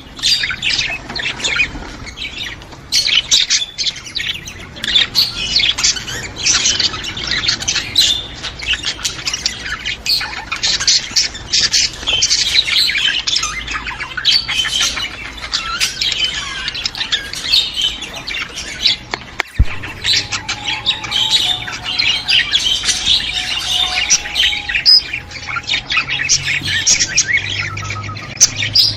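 Flock of budgerigars chattering continuously with many overlapping chirps, warbles and squawks.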